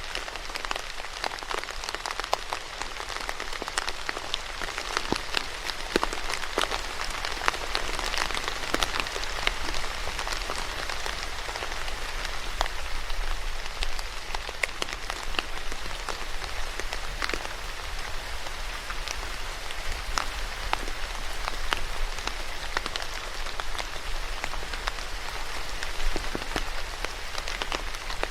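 Steady rain falling on a surface, a continuous patter with many individual drops striking close by.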